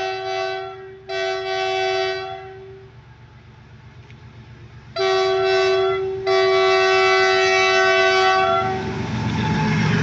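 Goods train locomotive horn sounding four blasts in two pairs, each a short blast followed by a longer one, with several tones sounding together. Near the end a broad rumble of the train rises.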